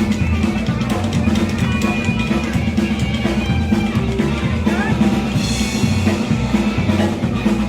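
A live trio of electric guitar, bass and drum kit playing at full volume, the bass drum and snare keeping a steady driving beat.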